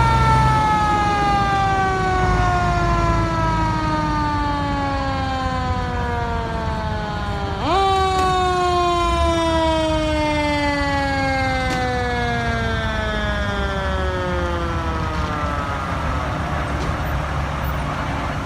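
A fire engine's mechanical siren is wound up quickly and then coasts down in a long, slow falling wail. It happens twice, the second wind-up about halfway through, and the second wail fades out near the end. A steady low engine rumble runs underneath.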